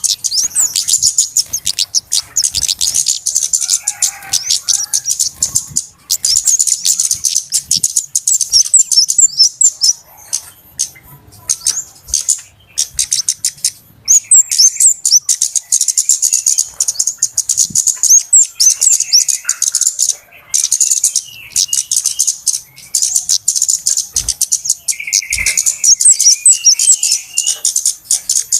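Flowerpeckers (cabe-cabean) calling, a fast, busy stream of very high, sharp ticking notes. It breaks off briefly a few times, with a few lower notes in between.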